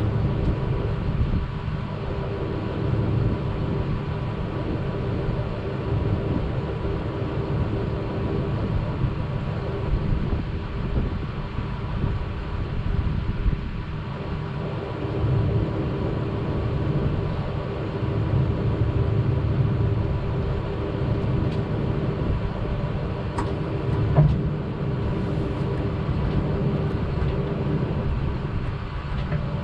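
An engine running steadily with a low rumble and an even hum, and a couple of faint clicks a little over twenty seconds in.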